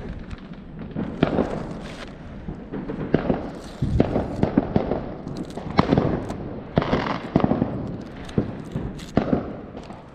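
Fireworks going off all around: an irregular run of sharp bangs from firecrackers and bursting shells, with continuous crackling between them.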